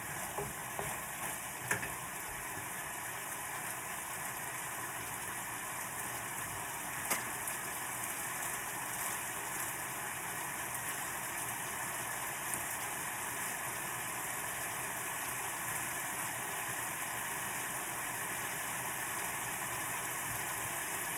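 Chicken and pineapple pieces sizzling steadily in a hot frying pan, with a few sharp clicks near the start and one about seven seconds in.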